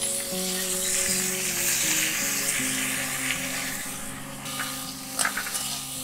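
Cut bitter gourd and potato pieces sizzling in hot mustard oil in an aluminium wok, the sizzle dying down after about four seconds. Near the end a metal spatula clicks and scrapes against the pan a few times.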